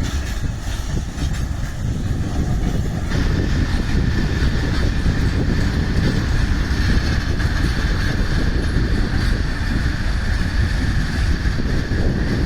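Loaded freight train of coal hopper wagons rolling past, a steady rumble of wheels on rail. From about three seconds in, a steady high ringing tone joins it.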